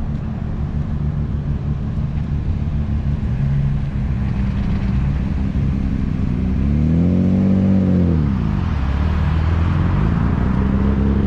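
Nissan Skyline R32's engine running as the car rolls in, with one rev that rises and falls about seven seconds in and a smaller one soon after.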